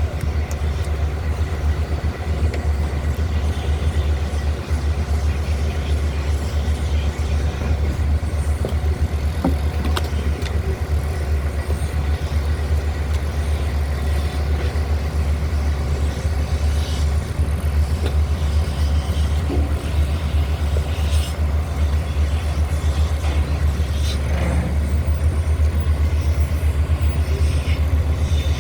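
An engine running steadily at idle, a low even drone, with a few faint clicks and knocks over it.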